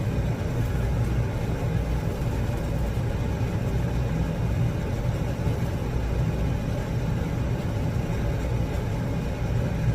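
A steady low mechanical rumble, like a motor running, with no distinct events.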